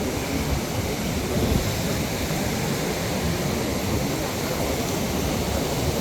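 Wind buffeting the microphone: a steady, ragged low rushing rumble.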